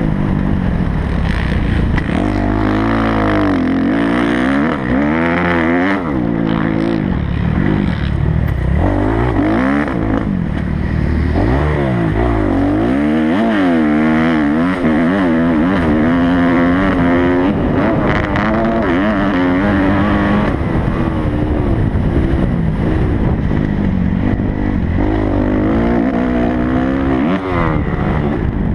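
Kawasaki motocross bike engine being ridden hard around a dirt track, revving up and down over and over as the throttle opens and closes through the turns and jumps. Under it runs a steady rumble and rush of wind.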